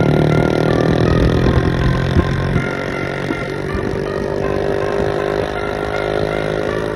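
Sport motorcycle engine running steadily at cruising speed, its pitch wavering slightly, with road noise beneath.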